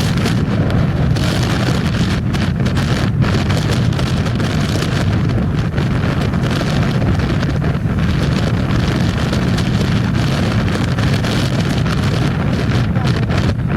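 Wind rushing over the microphone on a moving motorcycle, a loud, steady rumble with the bike's running noise mixed in beneath it.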